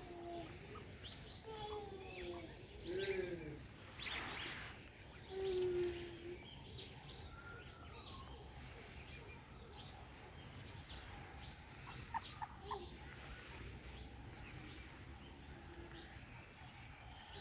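Day-old ostrich chicks calling: short, low-pitched calls that glide up and down, most of them in the first six seconds, with faint higher chirps throughout. There is a brief rustle about four seconds in and a few clicks around twelve seconds.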